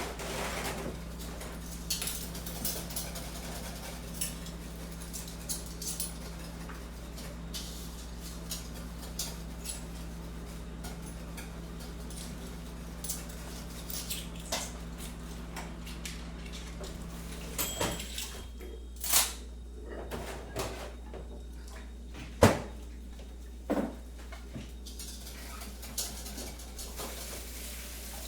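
Kitchen work sounds: scattered clinks and knocks of crockery, cutlery and cupboard doors over a steady low hum. Part of the hum stops about two-thirds of the way through. A single sharp knock comes near the end.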